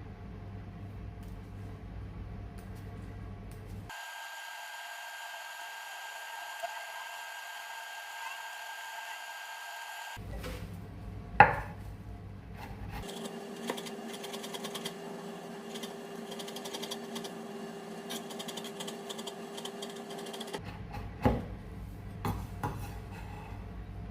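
Food-preparation handling noise: rubbing and scraping against a wooden surface, with a sharp knock about eleven seconds in and another about twenty-one seconds in. The sound changes abruptly several times, in separate short segments.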